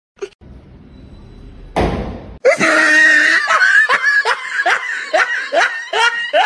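Loud laughter in a run of short 'ha' bursts, about two a second, starting a little after halfway, just after a brief loud rushing noise.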